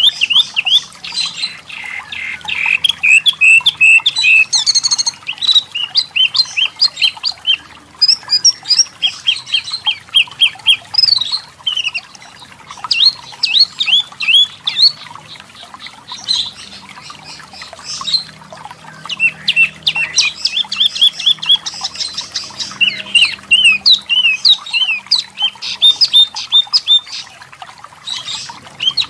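Pin-striped tit-babbler (wambi mini, tepus lurik) singing: runs of short, high, rising notes repeated several times a second, broken by short pauses.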